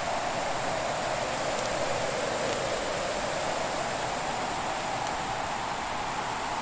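Fireplace ambience: a steady rushing hiss whose pitch slowly dips and rises again, with a few faint crackles from the fire.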